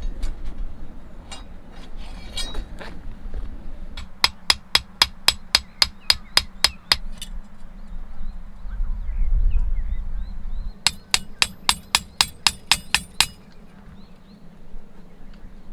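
Sanzoku Mountain Shock peg hammer driving a metal tent peg: two runs of quick, ringing strikes at about four a second, separated by a pause.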